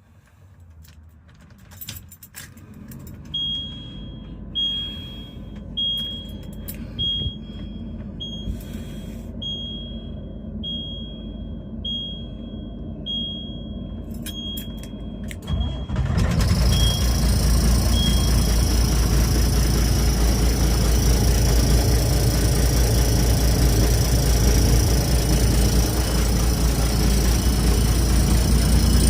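Fuel truck engine idling while a high warning beep sounds about once a second. About halfway through, the sound jumps suddenly to a much louder steady roar as the power take-off is engaged and the pump and engine run under load.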